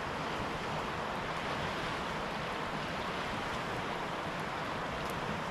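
Steady rushing of flowing river water, even and unbroken, with a few faint ticks near the end.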